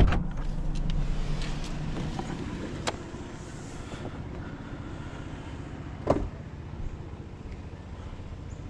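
Jeep engine idling steadily, with a sharp click at the start and a short knock with a brief squeak about six seconds in.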